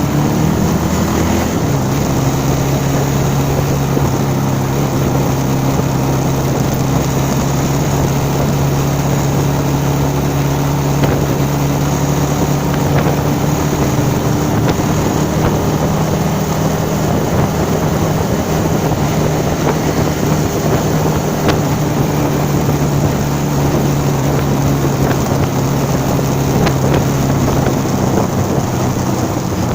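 A vehicle engine running at a steady pitch while cruising, under constant wind and road noise buffeting the microphone.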